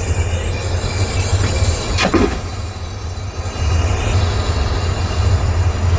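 Aircraft vacuum toilet flushing: a rushing whoosh that ends in a clunk about two seconds in, over the steady low drone of the airliner cabin.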